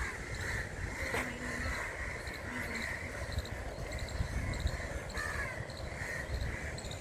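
Birds calling and chirping again and again over a steady low rumble.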